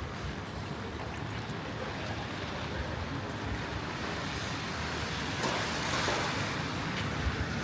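Rainy city-street ambience: a steady, even hiss of rain and wet pavement, swelling louder about five and a half seconds in.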